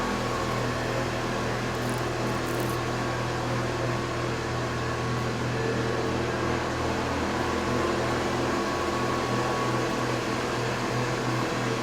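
Carbonization furnace machinery running steadily: a continuous low motor or fan hum with a few steady higher tones over an even rushing noise.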